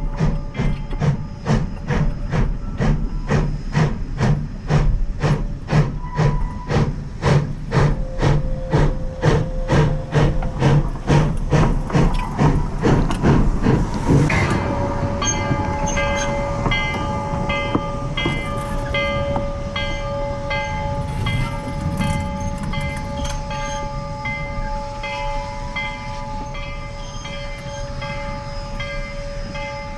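Narrow-gauge Baldwin 4-6-0 steam locomotive working along the track, its exhaust chuffing in an even beat of about three a second. About halfway through the chuffing stops suddenly and the engine drifts on, leaving steady tones and a regular clicking.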